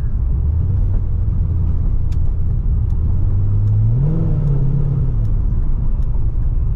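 C6 Corvette Grand Sport's V8 engine driving at low speed. About four seconds in it revs up briefly and then settles back.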